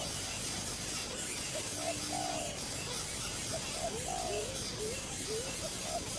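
Bird calls in a series of short notes, some of them rising slurs, repeating throughout over a steady background hiss.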